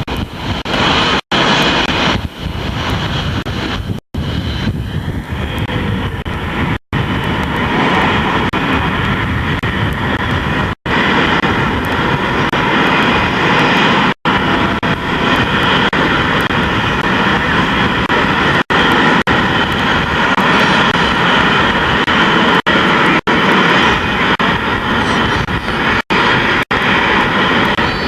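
Airplane engine noise, loud and steady, from an aircraft flying its display. The sound is cut several times by very brief dropouts in the recording.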